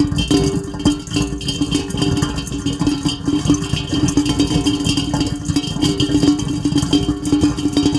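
Heavy rain drumming densely on a hard surface, a continuous rattle of drops, with a steady low hum held underneath.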